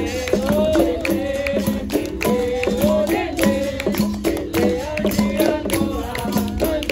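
Capoeira roda music: a berimbau playing a repeating two-note pattern, with sharp percussion strokes throughout and a voice singing a wavering melody over it.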